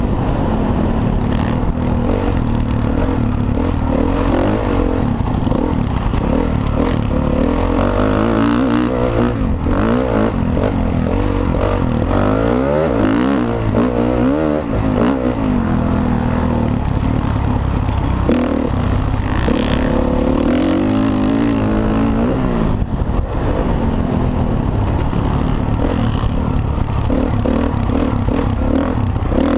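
Several motocross bikes racing, their engines revving up and falling back again and again, with the pitches of different bikes crossing one another.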